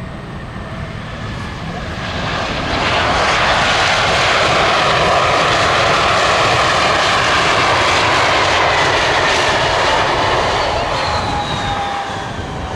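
Embraer E175 regional jet's twin CF34 turbofans on landing: the jet roar swells over a couple of seconds, stays loud for several seconds as the aircraft passes, then eases off with a whine falling in pitch near the end.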